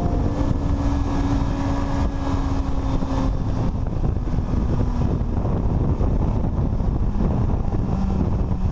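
BMW S1000RR inline-four sport bike running steadily at road speed, under heavy wind rumble on the microphone.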